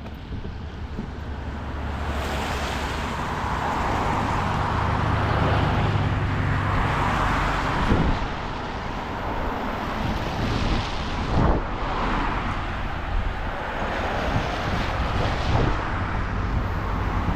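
Cars driving past one after another, engine hum and tyre noise swelling and fading as each goes by.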